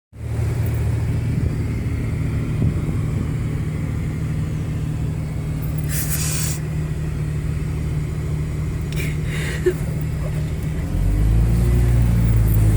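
A vehicle engine running with a steady low rumble, growing louder about eleven seconds in, with two brief hissing sounds midway.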